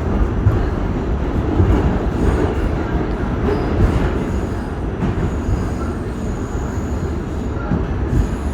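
R46 subway train running through the tunnel: a steady rumble of steel wheels on the rails, with a faint high squeal from the wheels midway.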